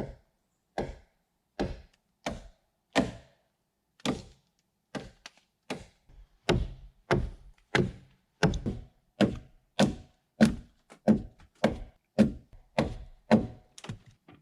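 Repeated blows of a hand tool into wood, each a sharp knock with a dull thud under it. The strikes come irregularly at first, then fall into a steady rhythm of about one and a half to two a second from about six seconds in.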